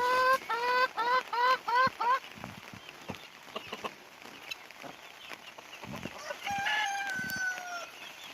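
Chickens calling: a quick run of about seven short clucks in the first two seconds, then near the end a rooster's long drawn-out crow, falling slightly in pitch.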